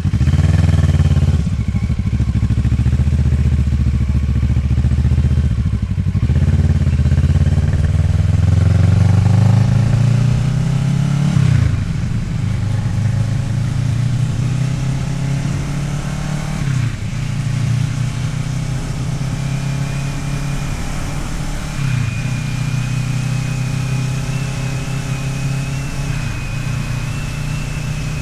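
Kawasaki Ninja 650R's parallel-twin engine accelerating up through the gears, its pitch climbing and then dropping sharply at each of several upshifts, before settling into a steadier cruise.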